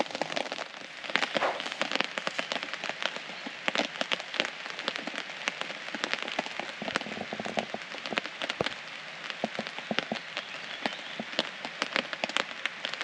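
Steady rain falling on a hammock tarp overhead, with frequent irregular sharp taps of single heavier drops.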